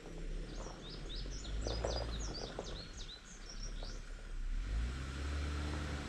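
A songbird sings a quick run of short, high chirping notes over the low, steady running of the Jeep's engine as it crawls over rough road. A few light knocks come through the middle, and the engine picks up near the end.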